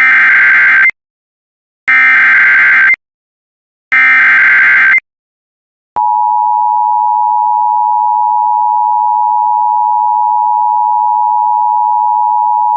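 Emergency Alert System SAME header: three warbling digital data bursts about a second apart. They are followed about six seconds in by the EAS attention signal, a loud steady electronic tone that holds on, announcing an emergency alert (a severe thunderstorm warning).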